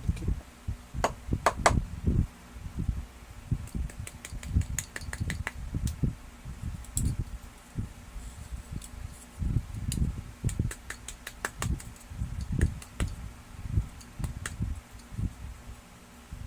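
Plastic printer parts and gears being handled and taken apart by hand: irregular knocks and sharp plastic clicks.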